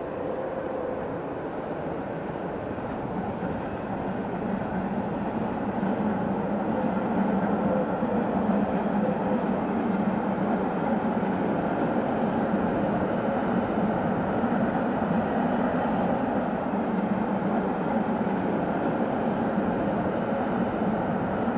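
Rhaetian Railway electric locomotive hauling a train of passenger coaches, the steady running noise of the train on the rails. It grows louder over the first several seconds and then holds level.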